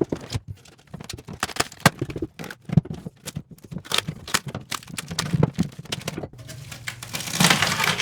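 Irregular knocks, taps and cracks of wood and hand tools as a cut-out piece of subfloor is worked loose, with a louder scraping rasp near the end.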